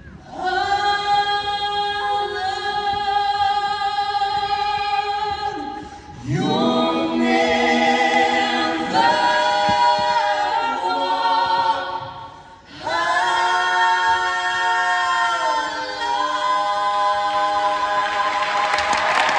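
A choir singing a cappella: long held chords in three phrases, with a short break between each. Applause starts near the end.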